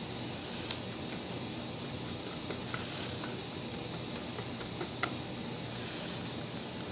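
A mixing utensil clinking against a bowl while cake batter is stirred: scattered light clicks, the sharpest about five seconds in, over a steady low hum.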